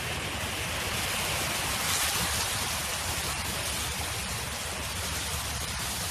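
Steady wind noise: an even hiss over a low rumble, swelling slightly about two seconds in.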